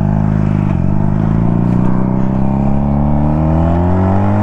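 A 125 cc two-cylinder chopper's carburetted engine accelerating under the rider. The revs dip briefly just under a second in, then the engine note climbs steadily.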